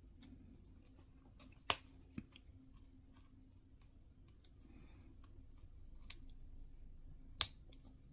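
Small plastic model kit parts being handled and pressed together: faint scattered clicks, with two sharper plastic snaps, one just under two seconds in and one near the end.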